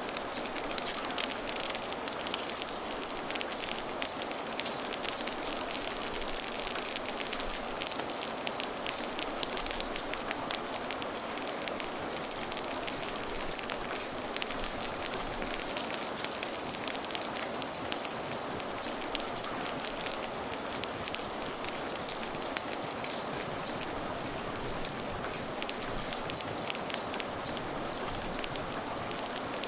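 Steady rain with a crackling fire: an even hiss of falling rain sprinkled with many small sharp ticks and pops.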